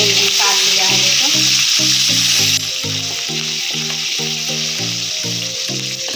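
Sliced onions frying in hot oil in a kadai: a steady sizzle as they are stirred with a slotted spatula, dropping suddenly in level about two and a half seconds in. Background music with a steady repeating beat plays underneath.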